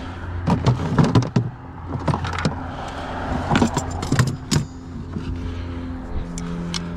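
Several clusters of sharp clicks and rattles of tools and small hard parts being handled, over a steady engine-like hum.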